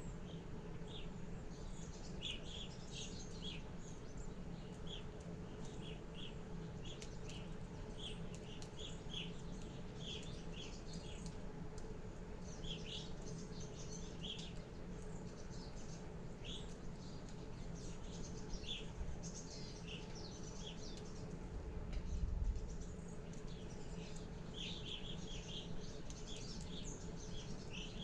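Small birds chirping in quick, short, high calls, scattered and repeated, over a steady low hum. A brief low rumble comes about two-thirds of the way through.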